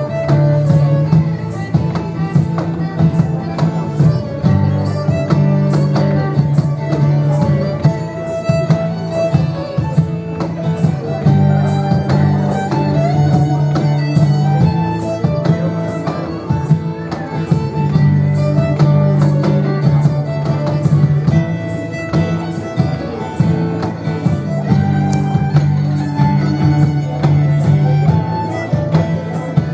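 A Celtic folk band playing a dance tune: a melody over a steady strummed rhythm and held bass notes, without a break.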